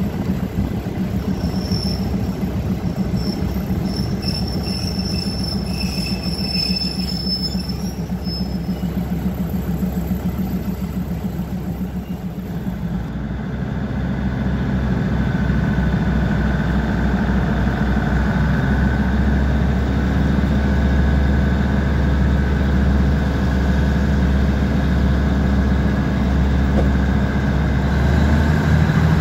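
Diesel train engine running steadily at low power, then about halfway through it grows louder and deeper as the train powers up and runs under load, with a thin high whine over it.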